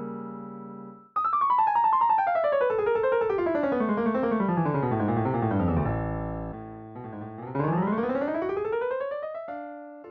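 Background piano music: a held chord fades out, then a fast run of notes sweeps down the keyboard and another climbs back up before a new chord.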